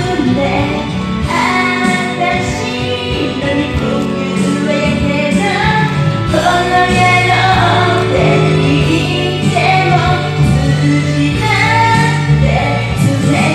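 A pop song: a singer's voice carrying the melody over an instrumental backing track.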